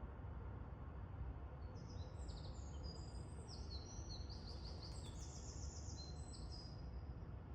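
Small birds chirping in quick runs of short high notes for a few seconds, over a steady low background rumble.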